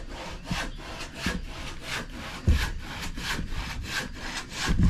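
An old, blunt hand saw cutting wood in steady back-and-forth strokes, about two and a half a second, with a couple of louder knocks from the workpiece, one midway and one near the end.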